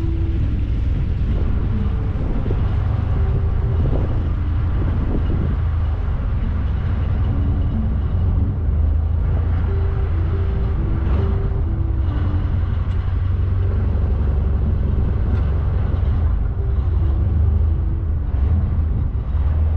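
Small river ferry boat's engine running steadily, a deep rumble, with wind buffeting the microphone.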